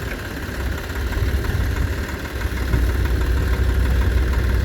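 Heavy diesel engine running with a steady low rumble, getting a little louder partway through.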